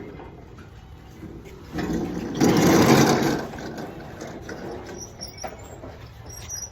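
A loud rattling, scraping noise lasting under two seconds, starting about two seconds in, over a low steady background.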